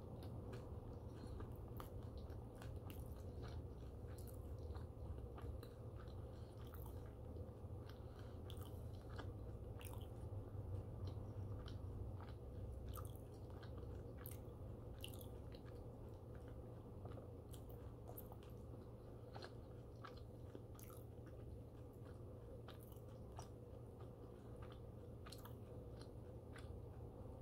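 Close-miked chewing with the mouth closed: the soft, scattered clicks and smacks of a person slowly working through the last bites of a meal, over a steady low hum.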